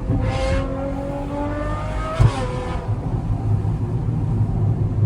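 Straight-piped Ferrari V12 engine accelerating, its pitch climbing steadily for about two seconds. It breaks off at a shift and carries on as a lower, steady rumble.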